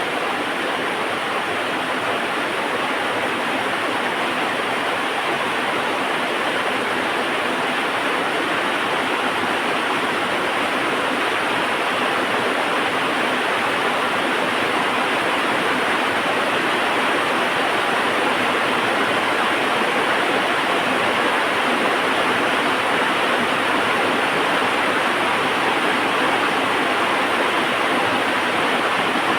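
Heavy rain falling steadily, a continuous even hiss with no let-up.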